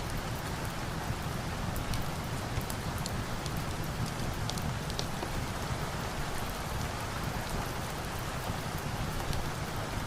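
Steady rain falling, an even dense hiss with scattered sharp little ticks of drops.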